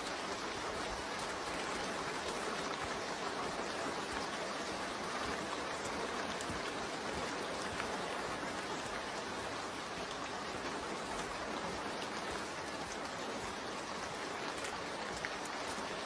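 Rain falling steadily, an even hiss with scattered ticks of single drops.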